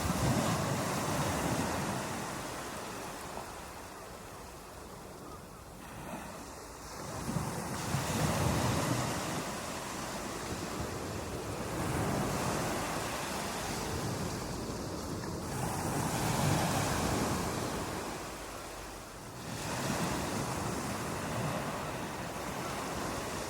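Ocean surf breaking on a beach and washing up the shore, the noise swelling and easing in repeated surges a few seconds apart.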